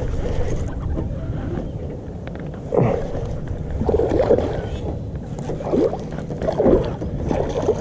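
Reeling in a hooked bass from a kayak: fishing reel and rod handling over a steady low rumble, with several short sliding whines between about three and seven seconds in.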